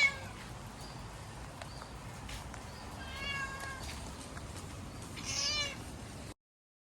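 An animal calling three times, short high-pitched calls a few seconds apart, over steady low background noise; the sound cuts off suddenly about six seconds in.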